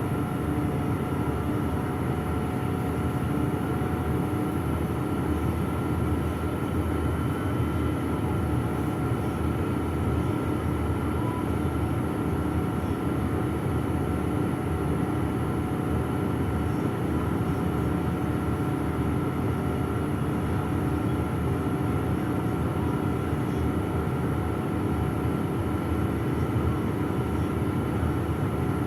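Steady cabin noise of a PAZ-422320-14 "Citymax 9" city bus under way: engine and road noise blended into an even rumble with a faint steady hum.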